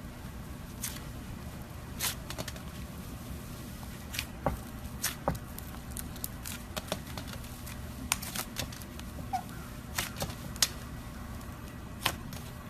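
Butter slime being handled and squished, giving irregular sharp clicks and pops over a steady low hum.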